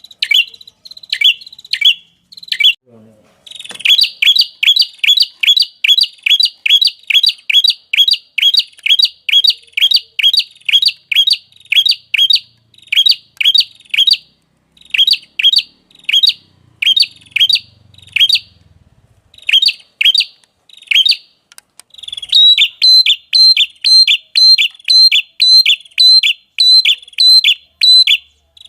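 A small songbird giving a long, rapid series of short, sharp chirps, about three a second, with a brief pause a few seconds in; toward the end each chirp gains a higher note.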